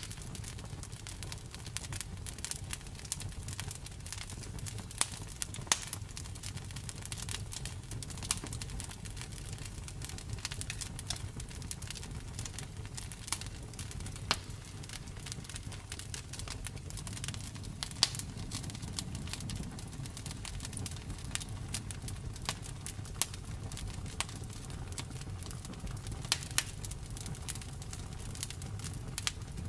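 Wood fire crackling in a fireplace: frequent sharp pops and snaps, a few of them louder, over a steady low rumble of burning.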